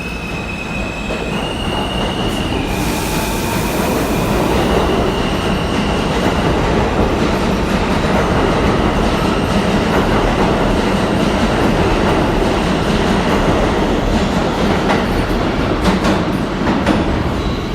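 New York City subway train running through an underground station, its wheels and track giving a loud, steady rumble. A high whine steps up and down in pitch during the first few seconds, and the noise falls away near the end.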